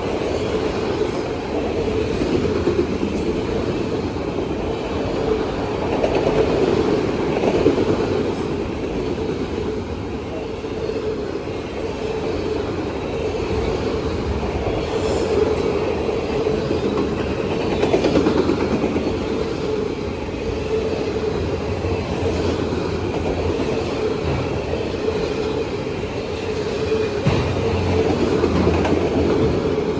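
Freight train cars rolling past at steady speed, a continuous rumble of steel wheels on rail with light clicking over the rail joints.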